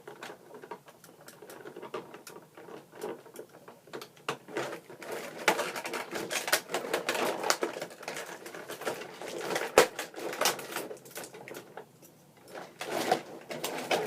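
Hands handling plastic packaging and twist ties while working a die-cast toy tractor out of its box: irregular rustling and clicking, busiest in the middle, with one sharp click about ten seconds in.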